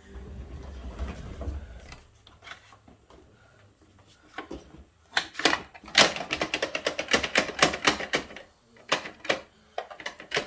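Hard plastic clicking and clattering from Bruder toy garbage trucks being handled: a low rumble in the first two seconds, then a fast run of clicks from about five seconds in, with a few more near the end.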